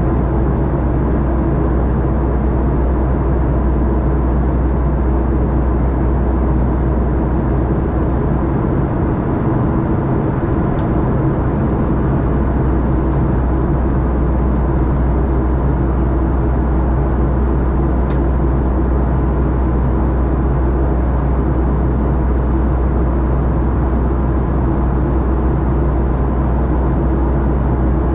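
Steady cabin noise inside a Boeing 737-800: a constant low rumble of engines and airflow with a few steady hums, holding level throughout.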